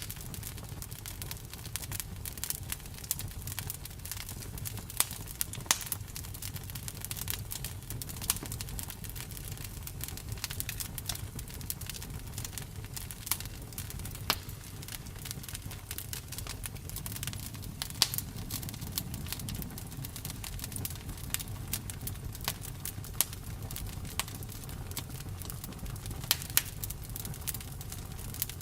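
Campfire burning: wood crackling with irregular sharp pops, over a steady low rumble.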